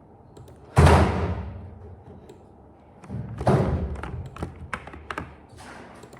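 A loud thump about a second in that fades away slowly, then a second rougher thud about halfway through, followed by a run of light taps and clicks.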